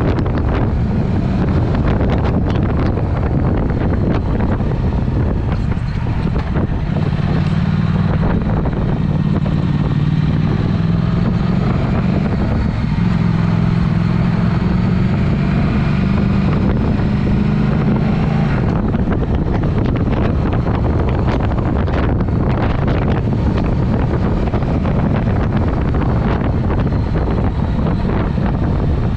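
Triumph Speed Twin's parallel-twin engine running through a Vance & Hines exhaust on the move, with wind rushing over the microphone. The engine note holds steadier and fuller from about a quarter of the way in until past halfway, then turns rougher again.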